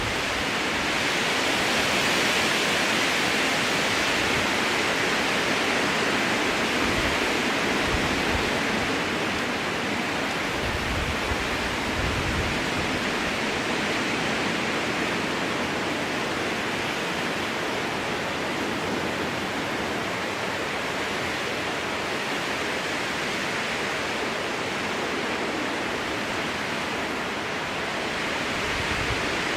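Strong wind blowing through a spruce forest: a steady rushing of wind in the needles that slowly swells and eases, with a few low gusty rumbles.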